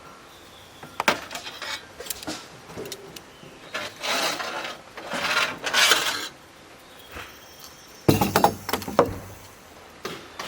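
Objects being handled and set down: scattered clicks and clinks, two spells of rustling in the middle, and a heavier knock with a clatter about eight seconds in.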